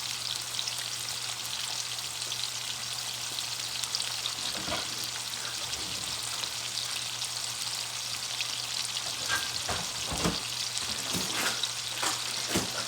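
Seasoned chicken pieces sizzling steadily in a hot pan. In the second half a utensil knocks and scrapes against the pan several times as the chicken is stirred. A faint steady low hum runs underneath.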